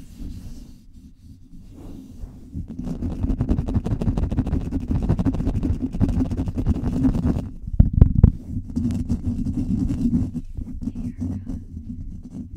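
Fast, aggressive scratching directly on a microphone, a dense rumbling scrape heavy in the low end. It is quieter at first, builds about two seconds in, peaks in a burst around eight seconds, then eases off near the end.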